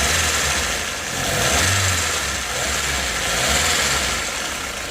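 Nissan GA16DS 1.6 L carbureted engine running warm, its speed and loudness rising and falling gently every couple of seconds.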